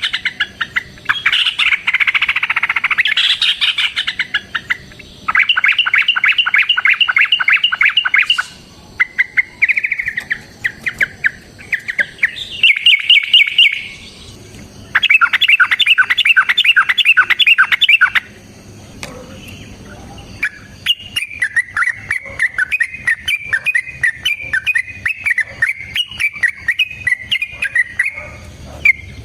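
Yellow-vented bulbul (trucukan) singing: loud, fast chattering phrases of two to three seconds each, separated by short pauses, then a longer unbroken warbling run from about two-thirds of the way in. It is the long-phrased 'ropel' song used to call and provoke other trucuk birds.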